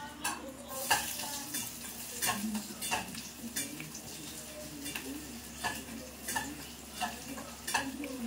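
Wet, open-mouthed chewing and lip-smacking, roughly one or two smacks a second, with fingers squelching rice and pork steak sauce together in a bowl.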